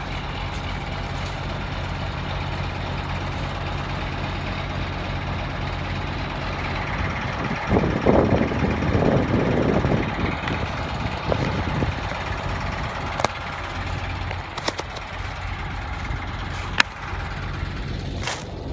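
Truck engine running steadily at idle, getting louder and rougher for a couple of seconds about eight seconds in. A few sharp clicks are heard later on.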